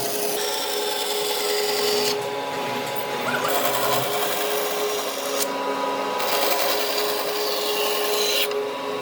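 Wood being scraped or abraded by a tool, a harsh rubbing noise over a steady hum. The scraping breaks off briefly about two seconds in and again about five and a half seconds in.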